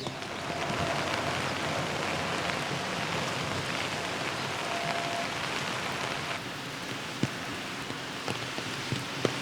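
Steady rain falling, with a few sharp taps of drips, the clearest about seven seconds in and near the end.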